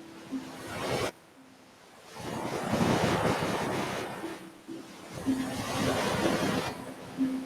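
Ocean surf washing onto a beach: two waves swell and break, each surge lasting about two seconds, after an earlier wash that cuts off abruptly about a second in.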